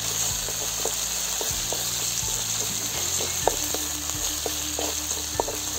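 Curry leaves, green chillies and spices sizzling in hot oil in an aluminium kadai, with a wooden spatula scraping and tapping against the pan in irregular clicks as the tempering is stirred.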